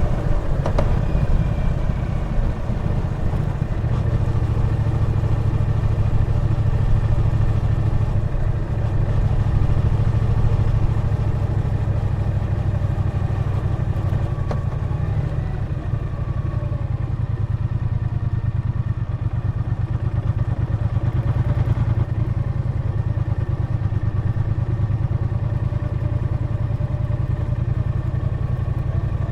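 Triumph Bonneville T120 parallel-twin engine running steadily as the motorcycle is ridden along, its pitch drifting slightly up and down with the throttle.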